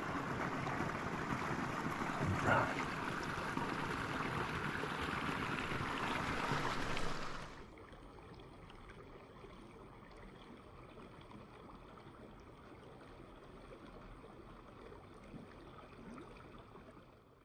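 River water rushing in a steady, even wash, which cuts off abruptly about seven and a half seconds in. A much fainter steady hiss follows.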